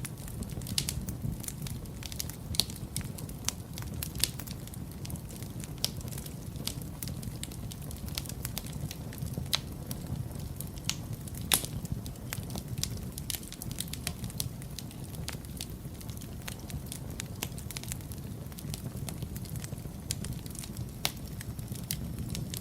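Wood fire burning in a fireplace: a steady low rumble of the flames with irregular sharp crackles and pops scattered throughout, one louder pop about eleven and a half seconds in.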